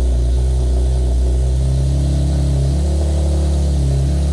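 Nissan 370Z's 3.7-litre V6 idling steadily, its pitch lifting slightly about two seconds in and settling back near the end.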